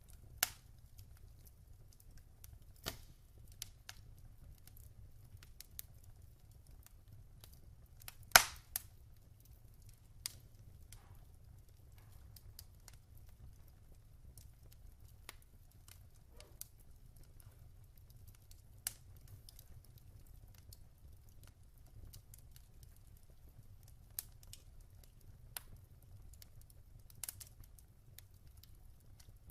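Wood fire crackling in a fireplace: sparse, irregular sharp pops over a low steady rumble, the loudest pop about eight seconds in.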